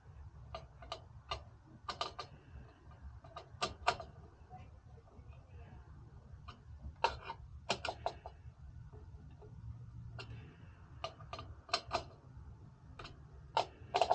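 Irregular small clicks and taps, often in quick pairs or threes, from hands working on computer hardware with tools and parts, over a steady low hum.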